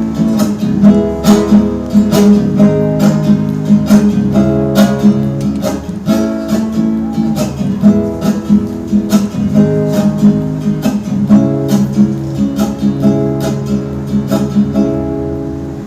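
Acoustic guitar strummed in a steady rhythm, playing the song's instrumental close, and fading near the end.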